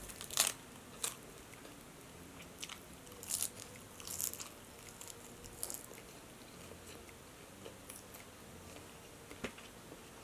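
Close-up mouth sounds of someone biting and chewing crispy fried chicken (ayam geprek). Sharp crunches come in scattered clusters, with quieter chewing between them.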